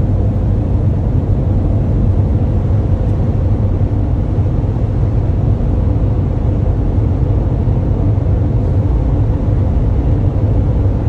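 Steady engine and road noise of a moving vehicle: an even low rumble with a constant hum.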